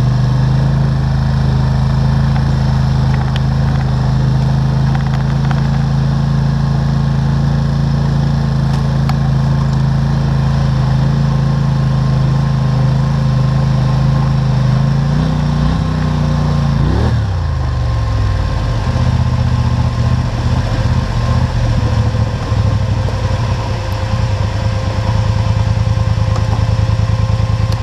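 ATV engine running steadily as the four-wheeler is ridden. About two-thirds of the way through, the engine note briefly rises, then drops sharply before settling steady again.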